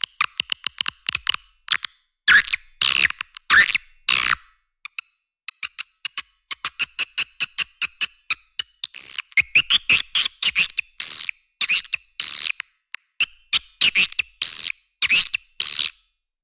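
Recorded swiftlet calls used as a lure sound for swiftlet houses: fast rattling trains of clicks alternating with buzzy, twittering chirps, with almost no low end.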